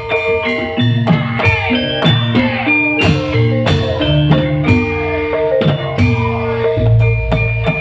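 Live band music without vocals: an instrumental passage with steady drum hits under held and gliding melody notes, with guitar in the mix.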